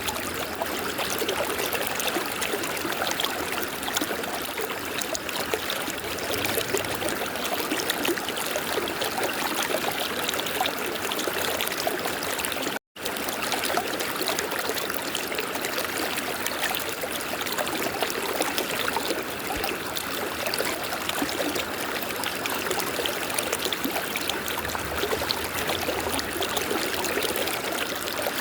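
River water flowing, a steady, even rush. The sound cuts out for an instant about halfway through.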